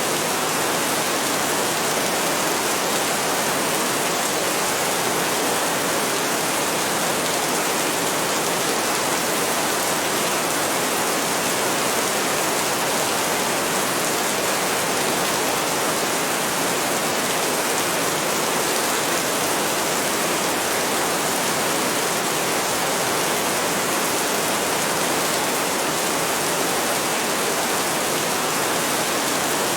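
Heavy rain falling steadily in a dense, even hiss with no let-up and no thunder.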